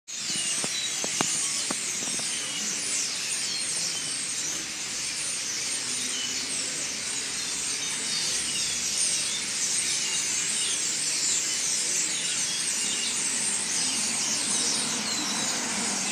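A dense chorus of many small birds chirping at once, a continuous twittering made of countless short, high, quickly falling notes. A few light clicks sound within the first two seconds.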